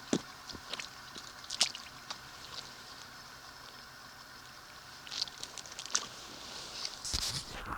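Water sloshing and splashing in short, irregular bursts around a small LEGO RC boat, over a faint steady hum.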